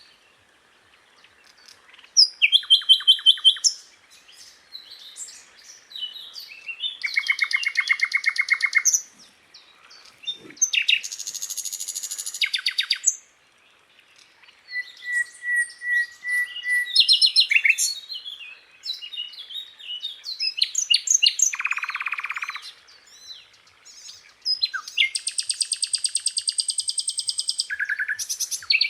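Sikatan londo flycatcher singing: a string of separate phrases of rapid high trills, chatters and chirps, with short pauses between them.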